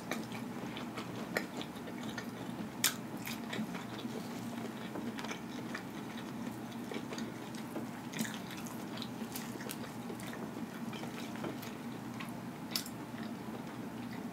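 Close-miked chewing of fried breaded catfish, with soft wet mouth sounds and a few sharp little clicks and crackles, one as the fillet is pulled apart about eight seconds in. A steady low hum runs underneath.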